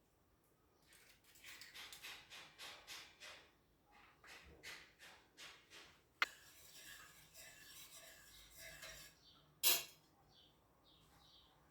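Kitchen food-preparation sounds: a run of rhythmic scraping or stirring strokes, about four a second, then a sharp click, a few seconds of soft hiss, and a brief clatter near the end.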